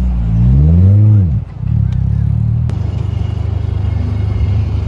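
A car engine revved once, its pitch climbing and dropping back within the first second and a half, then settling into a steady idle. A single sharp click is heard about midway.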